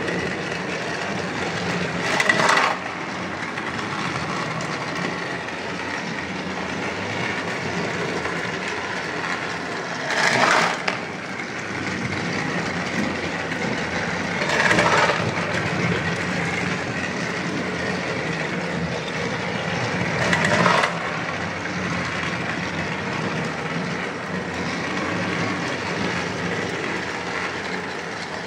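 Motorized toy trains running on a track: a steady whirring and rattling, with a short louder clatter four times, every few seconds.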